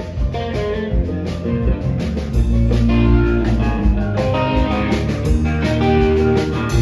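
Live rock band playing an instrumental stretch with electric guitar, bass, keyboards and drum kit, at a steady beat.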